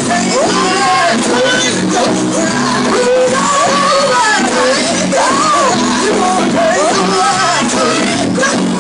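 Gospel music in a church service: a voice singing with sliding, bending runs over steady instrumental accompaniment.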